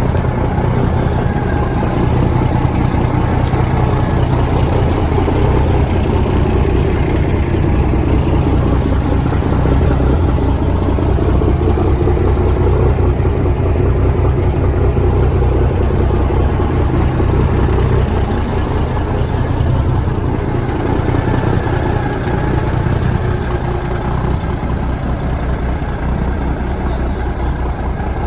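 Kenworth W900 big-rig diesel engine running steadily.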